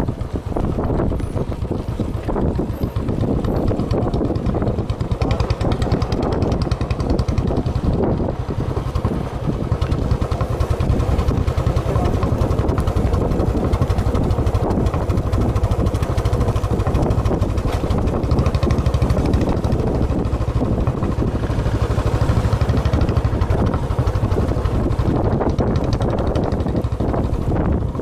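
Motorcycle engine running steadily while riding, a continuous low rumble with wind noise on the microphone.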